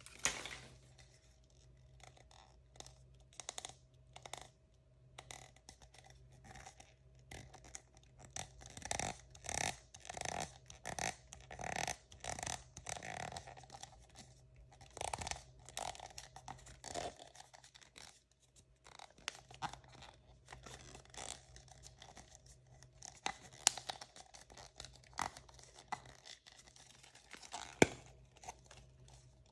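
Hands opening and handling plastic blind-bag packaging: soft, irregular crinkles, tears and scrapes in short bursts, with one sharp click near the end.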